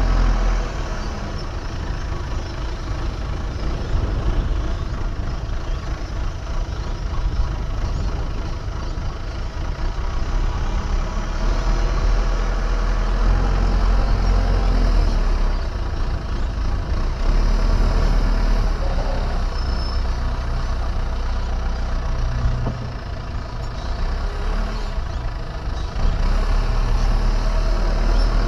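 Diesel engine of earthmoving machinery running steadily, its loudness rising and falling as the machine works.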